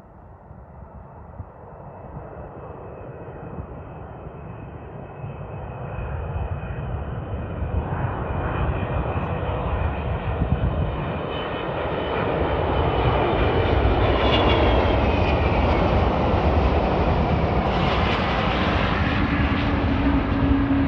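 Boeing 777-200 twin-jet airliner coming in to land, its engine noise growing steadily louder as it approaches. A high fan whine falls in pitch as it passes, about two-thirds of the way through, and the sound turns louder and brighter with a steady low hum near the end.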